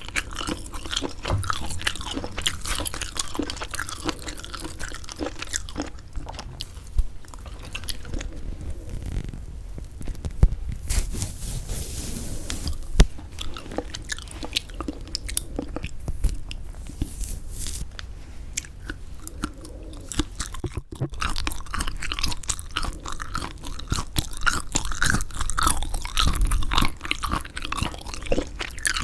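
Close-miked chewing and biting of semi-dried squid: a steady run of irregular, crackling mouth sounds with a brief pause a little before the last third.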